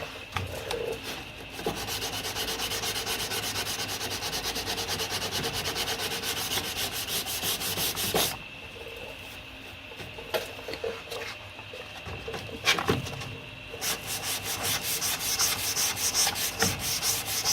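Dry hand-sanding of body filler on a Mk2 Ford Escort's door sill with 240-grit abrasive, in quick, rhythmic back-and-forth strokes. The sanding stops for several seconds in the middle, then starts again, taking out the guide-coat scratches.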